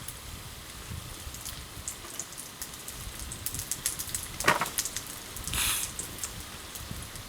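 Wood campfire crackling, with scattered small pops, a louder crack about four and a half seconds in and a brief hiss just after.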